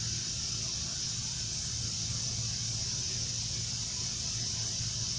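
Steady background noise: a low hum under a high-pitched hiss, with no distinct tool or part sounds.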